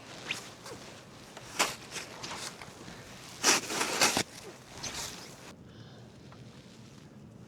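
Footsteps crunching through deep snow: a few irregular steps, the heaviest about three and a half seconds in, over a hiss that cuts off suddenly past the middle.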